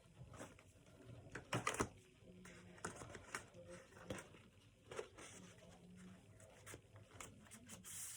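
Hands handling packaging: an irregular run of small clicks, taps and rustles, loudest in a quick cluster about a second and a half in.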